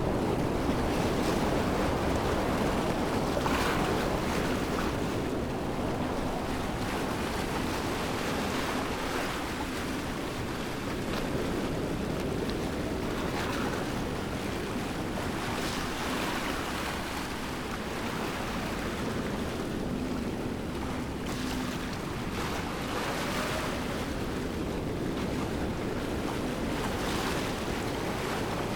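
Steady rushing water of a waterfall, a continuous even roar with soft swells every few seconds.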